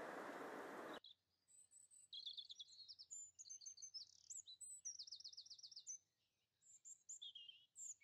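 Songbird singing faintly: high chirps and quick repeated trills. A steady rushing hiss cuts off abruptly about a second in.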